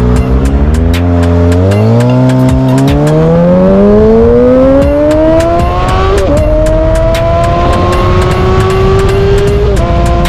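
Motorcycle engine under acceleration: its pitch climbs steadily for several seconds, dips briefly at a gear change about six seconds in, then rises slowly again until another shift near the end. Frequent sharp clicks run throughout.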